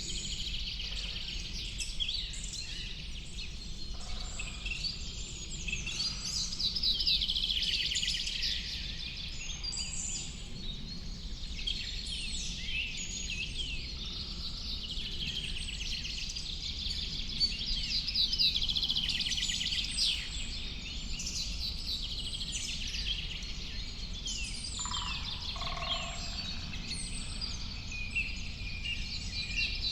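Several birds singing and calling at once, an unbroken chorus of trills and chirps over a low, steady background noise.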